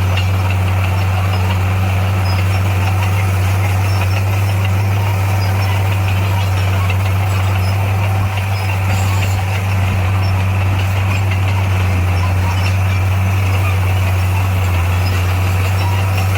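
Bulldozer's diesel engine running steadily at an unchanging pitch, with a brief dip in level about eight seconds in.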